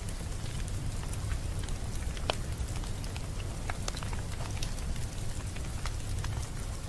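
Wood fire crackling in a fireplace: a steady low rumble of flames with scattered crackles and pops, one sharper pop a little past two seconds in.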